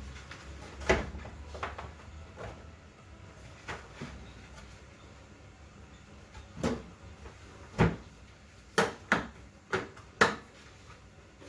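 A series of irregular knocks and clunks, about a dozen of them, as of hard objects being handled and set down, coming closer together and louder in the second half.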